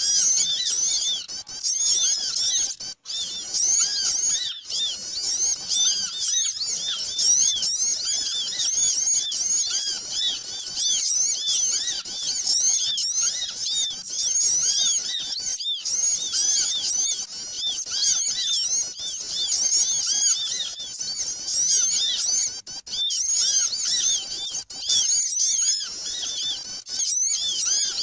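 Noisy chorus of many small birds, a bird-lure (pikat) recording: dense, overlapping, rapid high-pitched chirps and chatter with no pause.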